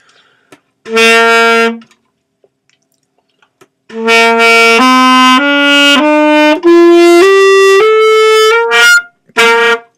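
Saxophone: one held note, a pause, then an ascending scale of about eight notes and two short notes at the top. It is played by someone returning to the instrument after about ten years without practice.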